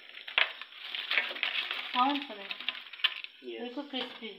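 Chicken frying in hot oil: a steady, dense sizzle, with a few sharp clicks of a utensil against the pan.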